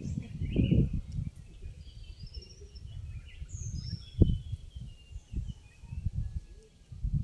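Wind gusting over the microphone in uneven low rumbling buffets, with a sharp gust about four seconds in. Small birds chirp in the background with short high calls, some sliding in pitch.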